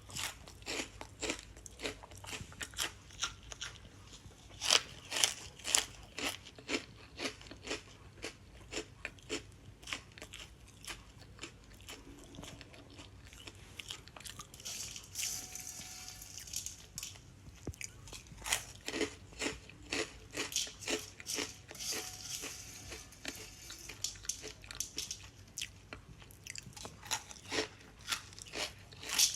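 Green parrot biting and crunching hard food in its beak, a run of sharp, irregular cracks about one or two a second.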